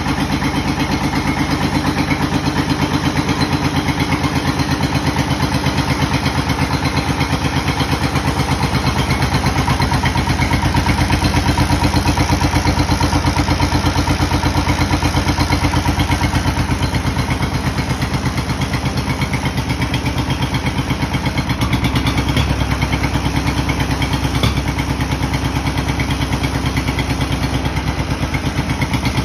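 John Deere M tractor's two-cylinder engine running steadily with an even pulsing beat. Its note shifts slightly about two-thirds of the way through.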